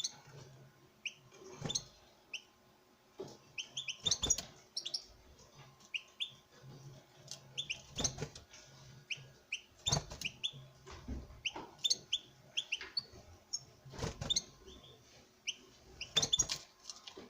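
European goldfinches calling in short, rising chirps repeated throughout, a male displaying to a female. About six sharp knocks stand out as the loudest sounds.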